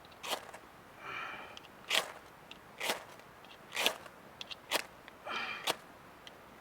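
A fire-starter rod struck over and over, about six short, sharp scrapes roughly a second apart, each one throwing sparks onto a tinder of dog fur and lint. Twice a brief pitched sound comes between strokes.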